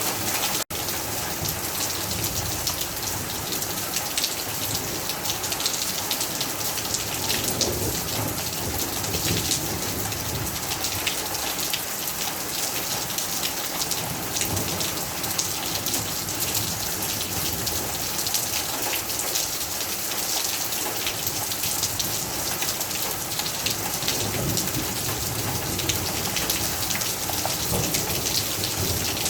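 Heavy rain falling steadily, a dense patter of drops striking hard surfaces. The sound cuts out for an instant just under a second in.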